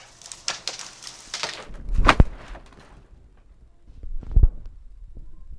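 A felled tree coming down: a run of crackling snaps of wood and branches, then a heavy deep thud as it hits the ground about two seconds in. A second, smaller thud follows a couple of seconds later.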